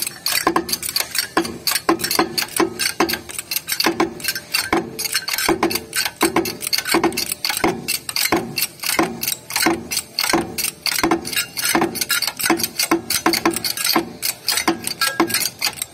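Rapid metal-on-metal clicks and taps from hand tools working on a diesel engine, about three a second, each with a brief ring.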